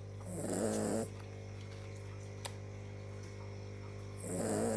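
Small dog snoring in its sleep: two snores about four seconds apart, each lasting under a second, over a steady low hum.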